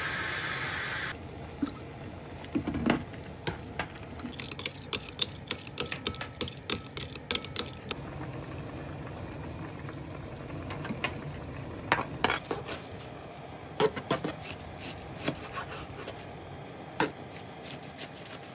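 Kitchen handling sounds: light clinks and knocks of dishes and utensils, with a quick run of clicks about five seconds in and a few louder knocks later.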